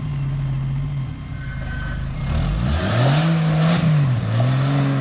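Off-road rock-crawling buggy engine revving in surges. The pitch holds steady, then climbs and falls again about midway and rises once more near the end, with added mechanical noise at the loudest point.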